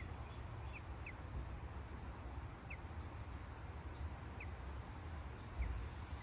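Small birds giving short, high chirps, about seven spread unevenly over several seconds, over a low steady rumble.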